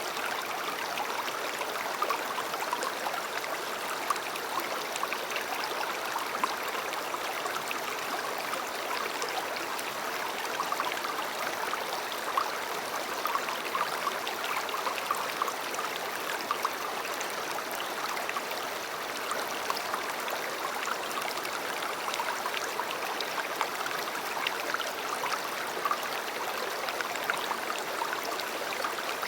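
A river running steadily over stones: an even rushing with many small splashes and gurgles, and now and then a brighter splash.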